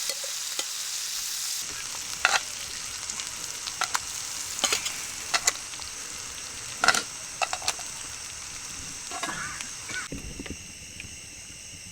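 Squid sizzling in a hot cast iron pan over a wood fire, a steady frying hiss, with a metal utensil scraping and clicking against the pan several times as the pieces are worked and lifted out.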